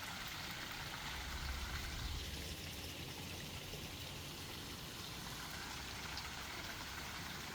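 Steady rushing of a forest stream flowing, with a faint low rumble for a couple of seconds early in the sound.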